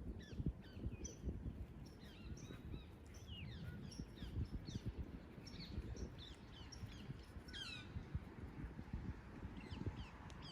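Small birds chirping in many short, quick, falling notes, over a low rumble of wind buffeting the microphone.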